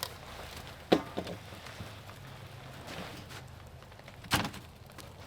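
Two sharp thumps about three and a half seconds apart, the first followed by a lighter knock, over a low steady background.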